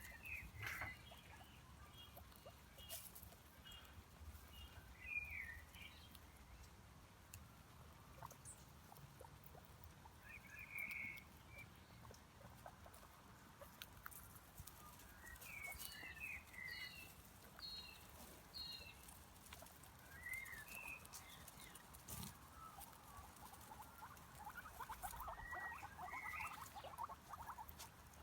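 Faint, short high-pitched squeaks and chirps from small animals, coming in scattered bunches, with light pattering or rustling near the end.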